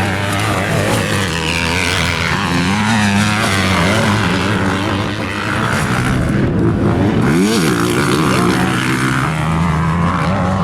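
Motocross dirt bike engine revving hard, its pitch rising and falling again and again as the throttle is worked through turns and jumps.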